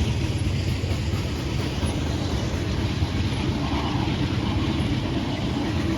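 Freight train moving slowly past, a steady low rumble of the locomotives and rolling cars with no horn.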